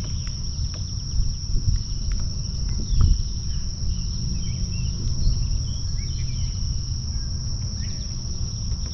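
Steady high-pitched insect chorus of crickets over a low rumble, with a few faint knocks and one a little louder about three seconds in.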